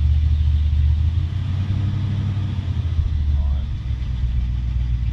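1969 GMC dump truck engine idling with a steady, deep rumble, still cold after starting at 14 °F. The idle eases off slightly near the end.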